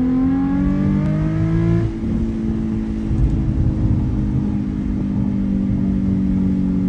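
Nissan 350Z's 3.5-litre V6 through a stock Nismo exhaust and a Tomei single-exit axle-back, pulling up through the revs for about two seconds, then dropping sharply in pitch at a gear change and holding a steady, slowly falling drone.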